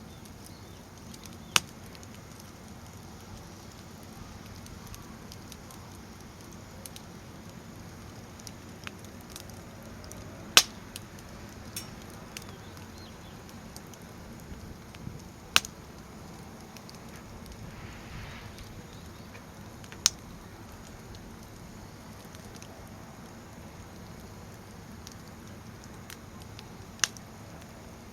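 Firewood burning in a fire stand: a steady low rushing of flame with scattered small ticks and about five sharp, loud pops from the logs.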